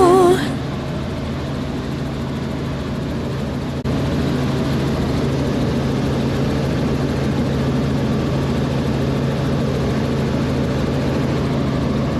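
Helicopter running, a steady drone with a held low hum. A short stretch of song ends just at the start, and about four seconds in the drone steps up slightly louder.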